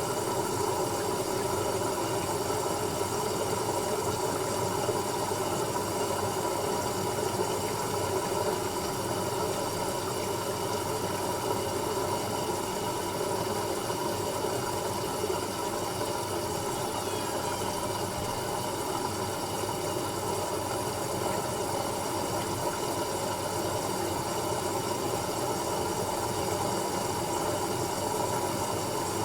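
Asko Quattro W6098X washing machine running steadily in the opening stage of a 30 °C quick wash, before heating starts. The sound is even throughout, with several held tones.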